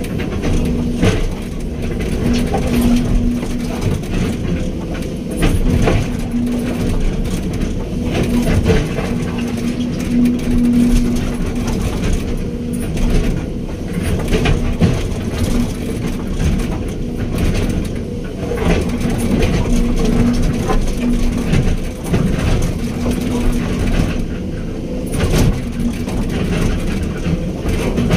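Hydraulic excavator's diesel engine running steadily under load, with a steady hum and occasional knocks and clanks from the machine at work.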